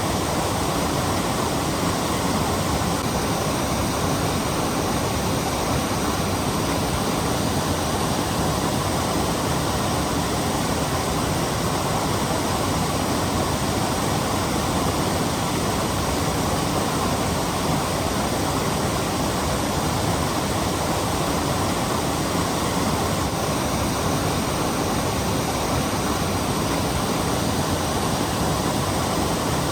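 Steady rush of falling water from Torc Waterfall, an even, unbroken hiss.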